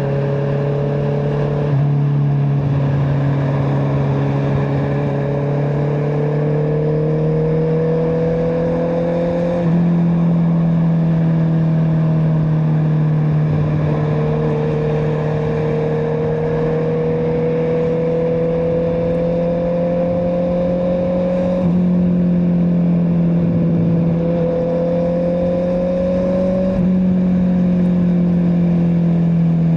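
Honda CBR650R's inline-four engine through an Akrapovic exhaust, heard from on the bike while riding: a steady engine note whose pitch climbs slowly and changes abruptly four times, with wind and road noise underneath.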